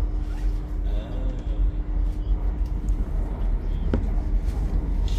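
Interior running noise of a moving passenger train: a steady low rumble with a steady hum that stops about three seconds in, and a single sharp click about four seconds in.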